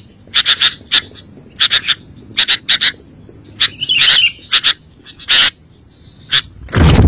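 Sooty-headed bulbul (kutilang) calling: short, sharp, high chirps in quick clusters of two or three, repeated about every second. A loud low thump comes right at the end.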